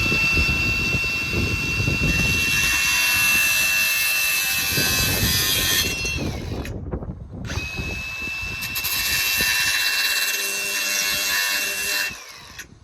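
Electric power saw cutting through a bathroom wall panel in two runs, a steady high motor whine over the noise of the cut; each run ends with the whine falling as the blade spins down.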